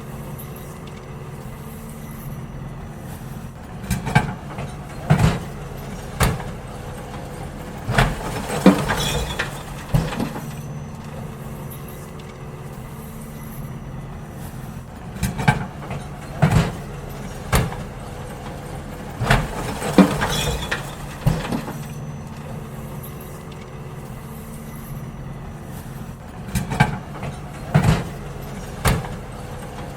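Garbage truck running steadily while emptying bins, with clusters of loud bangs and clanks every few seconds as the bins are tipped and knocked against the lifter.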